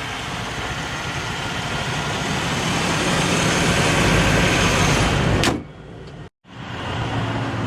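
GM 3800 Series II V6 idling in an open engine bay, a steady running sound that slowly grows louder. A sharp knock about five and a half seconds in, then a short break, after which the engine is heard running more quietly.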